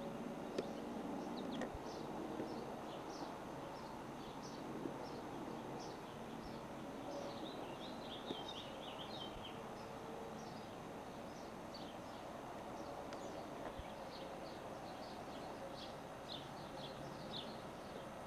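Small birds chirping again and again in short high calls, with a quick run of song about halfway through, over steady outdoor background noise. A few light knocks come near the start and about halfway.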